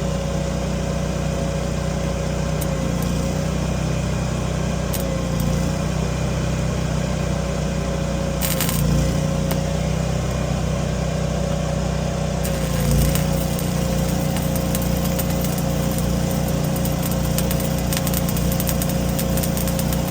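Heavy equipment engine running steadily, with a continuous whine that sags briefly in pitch several times as the load comes on, and a couple of short knocks near the middle.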